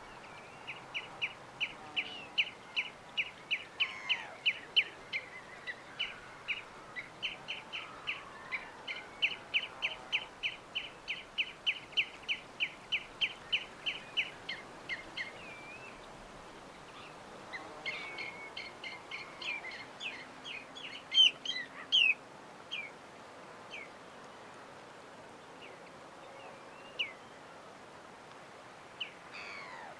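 Small bird chirping in a long, even series of short high notes, about two to three a second, for roughly the first half. A busier burst of chirps follows, then only a few scattered calls, over a steady background hiss.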